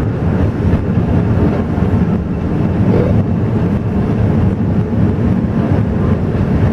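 Alishan Forest Railway train running, a steady low rumble.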